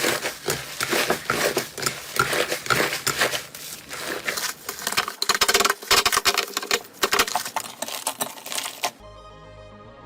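Slime being squeezed and poked by hand, a dense run of sticky clicks, pops and crackles. About nine seconds in it gives way to electronic music.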